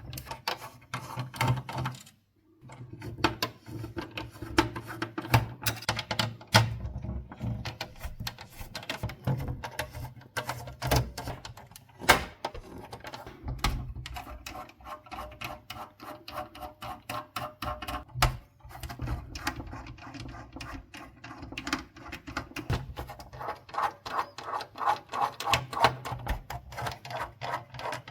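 Rapid, irregular clicks and taps of small plastic and metal parts of a PlayStation 4 console being handled and worked on with tools, over a low steady hum.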